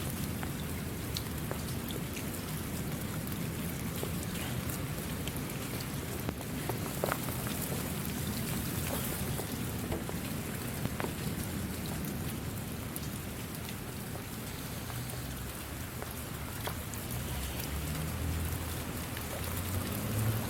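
Steady rain falling, an even hiss with scattered sharper drop hits; a low rumble swells near the end.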